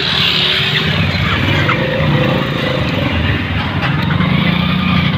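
Motorcycle and other road-vehicle engines running close by in heavy traffic, a steady rumble throughout.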